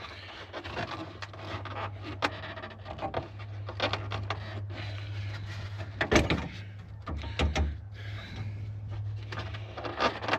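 Plastic clicks, rattles and knocks as a pickup's lower headlight housing is pried loose from its retaining clips by hand, with sharper knocks about six and seven and a half seconds in. A steady low hum runs underneath.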